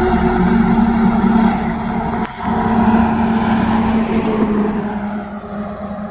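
Heavy truck engine running steadily, with a brief dip in level about two seconds in.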